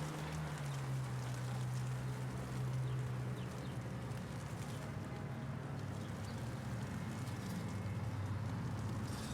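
City street ambience of traffic and hail: a steady low vehicle engine hum, shifting slightly in pitch, under light scattered ticking of hail.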